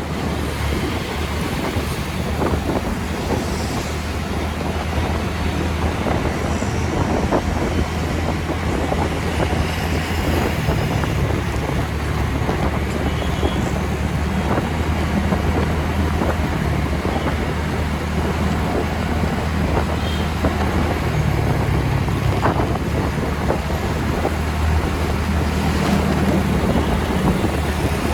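TVS Ntorq 125 scooter's single-cylinder engine running steadily while riding, with wind noise on the microphone and road traffic around.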